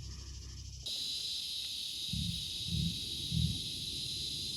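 A steady, high insect chorus buzzing and shrilling, starting abruptly about a second in. Three soft low thumps come in the middle.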